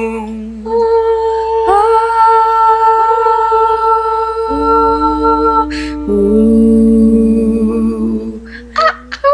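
Several voices humming long held notes at different pitches, overlapping, with new notes coming in one after another.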